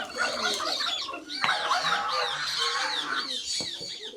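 Chickens clucking amid a busy chorus of birds, with quick high chirps repeating several times a second.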